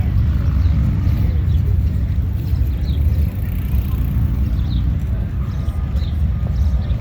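Low, steady rumble of Harley-Davidson motorcycle engines, with a few short high chirps over it.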